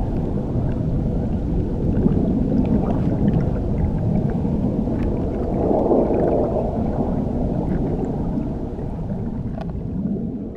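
Muffled underwater rush of churning water, recorded beneath a waterfall: a steady deep rumble with faint bubbly pops. It begins to fade out near the end.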